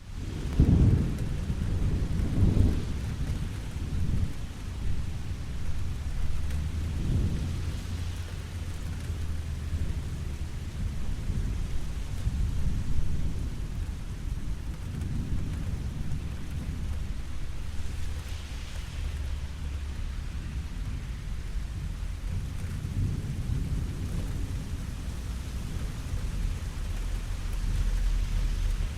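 Steady rain falling, with low rolls of thunder rumbling in and out several times, the loudest in the first few seconds.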